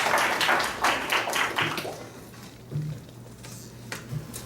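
Clapping, a quick patter of claps that dies away about two seconds in, leaving a low steady hum with a couple of faint taps.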